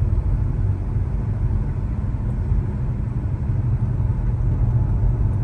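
Car engine and damaged exhaust running with a steady low drone while driving. The exhaust was damaged by running over a dead deer, which makes the car sound broken.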